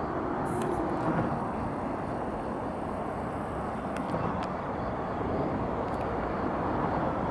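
Train running past with a steady rumble, and a faint high-pitched whine for a few seconds near the start.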